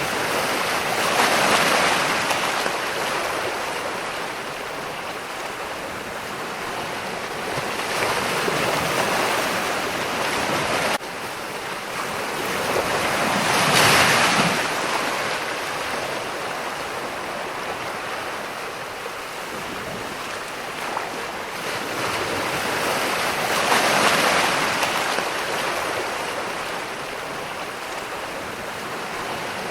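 Ocean surf: waves breaking and washing in as a steady rush that swells and fades every several seconds, loudest about two, fourteen and twenty-four seconds in. The level drops suddenly about eleven seconds in.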